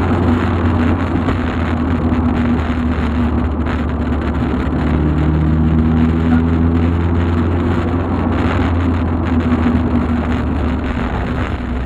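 Volkswagen Golf Mk2 under way: steady engine and road noise, with the engine note rising a little about halfway through.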